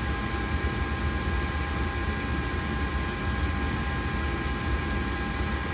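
Gas furnace running on a call for heat: the draft inducer motor gives a steady hum and even rush of air, with a few faint steady whines over it.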